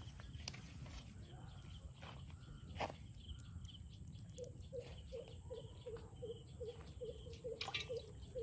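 Rural outdoor ambience: a steady low rumble with scattered clicks, and from about halfway through a short animal call repeated two to three times a second.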